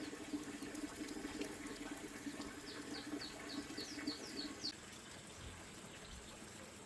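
Water running and splashing, with a small bird chirping in a quick series of short, high, downward notes. Both the chirps and the louder part of the water sound stop about four and a half seconds in.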